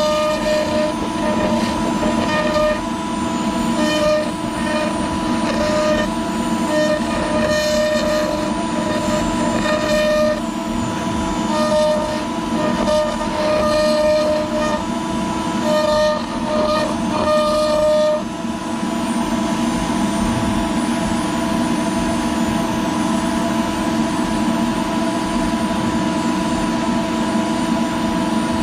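CNC router spindle and dust collector running while a 45° V-bit carves PVC. An extra whine comes and goes in runs of about a second as the machine cuts, then settles to a steady whine about two-thirds of the way through.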